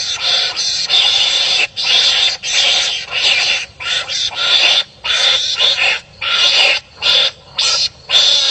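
Harsh, raspy animal calls from animals fighting and barking at each other, one call after another with short breaks between them that come more often towards the end.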